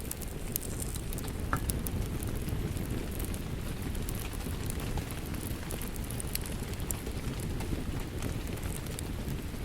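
Wood fire crackling with scattered sharp pops over a steady low rush of rain.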